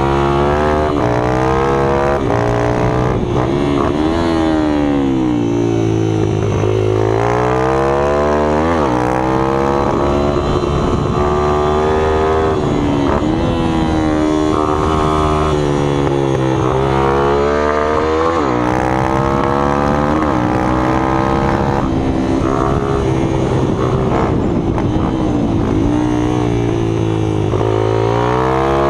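Minibike engines running, their pitch dropping and climbing again every few seconds as they ease off and accelerate, with more than one engine heard at once.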